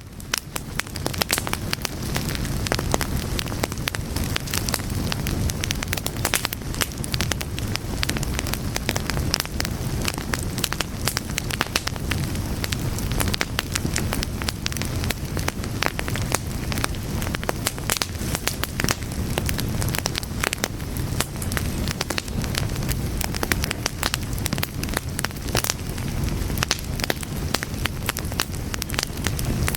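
Fire burning with dense, irregular crackles and sharp pops over a steady low rumble.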